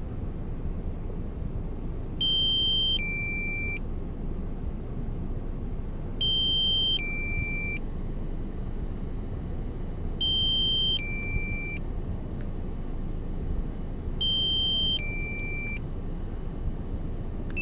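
Drone flight app's warning alert sounding four times, about every four seconds: each a higher beep tone followed by a lower one, lasting about a second and a half, while the aircraft battery is low. Under it a steady low rumble of wind.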